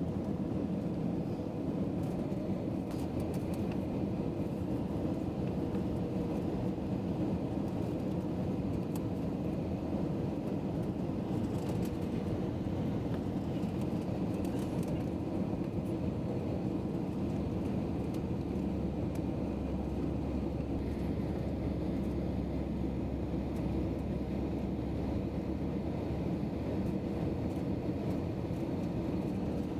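Airliner landing: a steady low rumble of engines and rushing air, holding an even level throughout.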